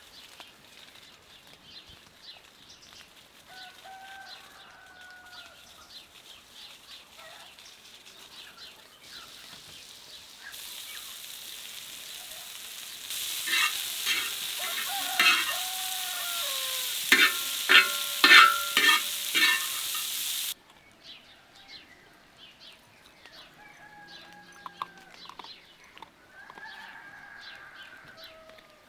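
Food sizzling in a hot pan while a utensil clinks and scrapes as it stirs. The sizzle grows louder, then cuts off suddenly about two-thirds of the way in. Chickens cluck before and after.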